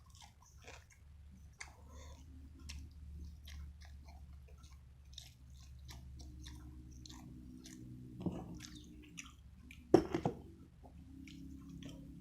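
Close-up chewing and biting of food, with wet mouth clicks and some crunching, over a steady low hum. A sharp knock about ten seconds in is the loudest sound, with a smaller one a couple of seconds before it.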